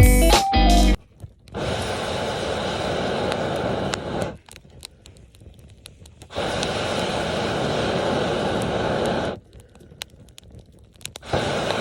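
Breath blown in long steady puffs through a fire-blowing pipe into a campfire: three blows of about three seconds each. Between the blows the fire crackles faintly.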